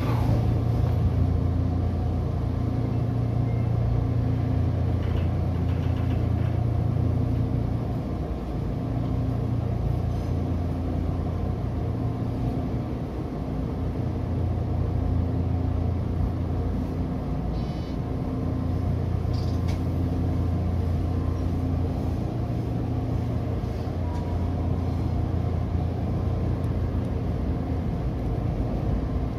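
Odakyu 2000 series electric commuter train running, heard from inside the driver's cab: a steady low rumble and hum from the moving train.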